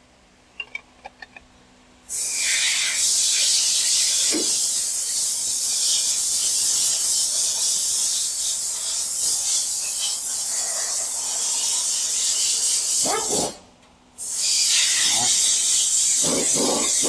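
A few light clicks, then a loud, steady hiss of air spraying from about two seconds in. It breaks off for under a second about three-quarters of the way through and then starts again.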